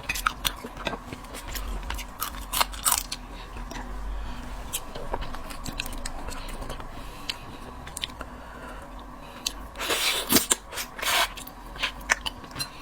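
Crab being eaten close to the microphone: crab shell cracking and crunching between bites and chewing, as scattered sharp clicks, with a denser run of crackling about ten seconds in.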